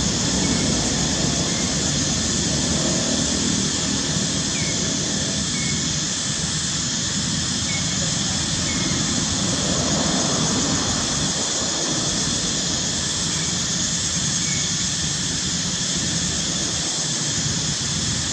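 A steady rushing noise that does not let up, with faint short high chirps about once a second.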